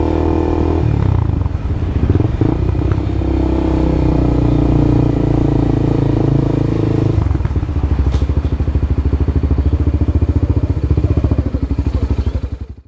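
Honda CB Twister single-cylinder motorcycle engine running through a new exhaust: held at raised revs, dropping about a second in, then settling into idle about seven seconds in with distinct, evenly spaced exhaust pulses.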